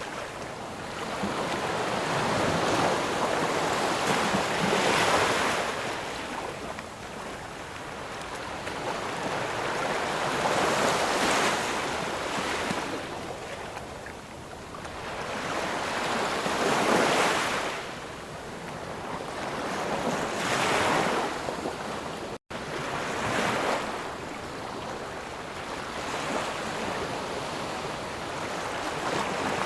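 Ocean surf: waves breaking and washing up on the shore in slow swells, each rising and falling over a few seconds. There is a momentary drop-out about two-thirds of the way through.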